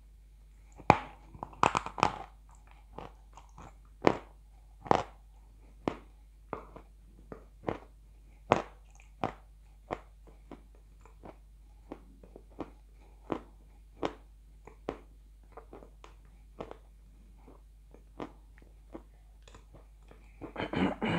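Close-up crunching of edible chalk topped with blue Uzbek clay, bitten and chewed in irregular sharp crunches. The loudest crunches come in a burst about a second in and in a dense cluster near the end.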